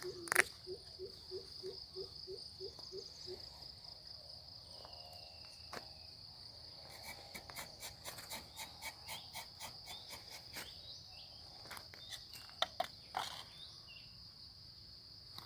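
Steady high-pitched drone of insects, with a low bird note repeated about two and a half times a second that stops about three seconds in. Scattered faint bird chirps and short clicks follow.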